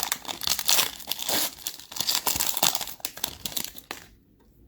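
Foil trading-card pack wrappers crinkling and tearing as the packs are ripped open by hand, stopping about four seconds in.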